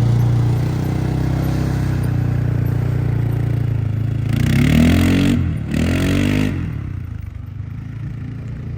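4x4 vehicle's engine running off-road with a steady hum, revving twice about halfway through, then easing off and quieter.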